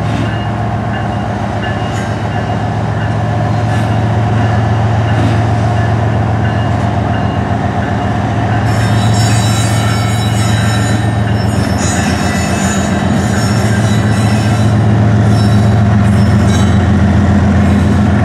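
Diesel freight locomotives passing close by, their engines running with a steady low hum. About nine seconds in, a high-pitched squeal of the train's wheels joins in over the engine sound.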